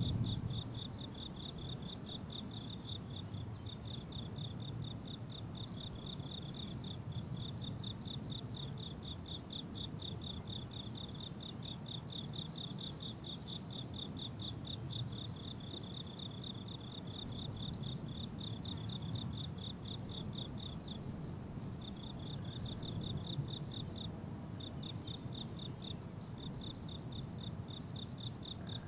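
Crickets chirping in a fast, even stream of pulses, with a second, slightly lower-pitched chirper dropping in and out.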